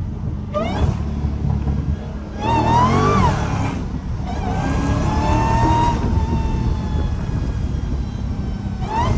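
Straight-piped Dodge Challenger Hellcat's supercharged 6.2-litre Hemi V8 running on the road, with a low exhaust drone and a supercharger whine that rises and falls with engine speed. The whine climbs briefly about half a second in, climbs louder around three seconds in and drops away, then slides slowly down before rising again near the end.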